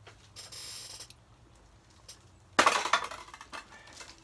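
Bike packaging and parts being handled: a short rustle near the start, then a sudden loud clatter lasting about half a second, about two and a half seconds in.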